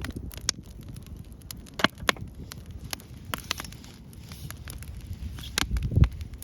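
Wood fire crackling: irregular sharp pops and snaps from burning wood over a low, uneven rumble. A louder pop and rumble comes near the end.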